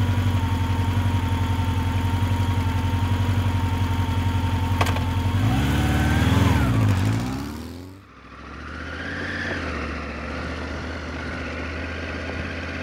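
Motorcycle engine idling with an even, pulsing beat. A click comes about five seconds in, then a brief rev that rises and falls. After a sudden drop near eight seconds, a quieter steady engine sound continues.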